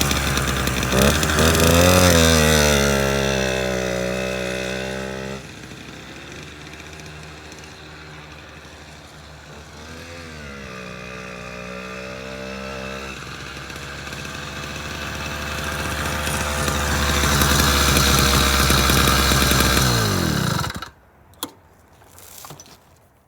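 Small 49cc motorized-bicycle engine running under way, its pitch dipping and rising again twice as it slows and picks up speed. It turns much quieter about five seconds in, grows louder again later, then winds down and cuts off about twenty seconds in, followed by a few faint clicks.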